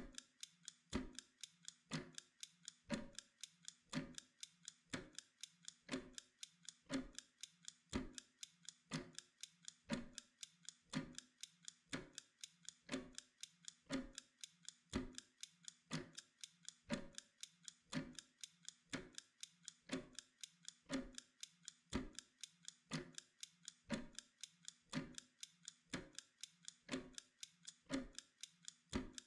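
Mechanical kitchen timer ticking steadily, about two ticks a second, every other tick stronger.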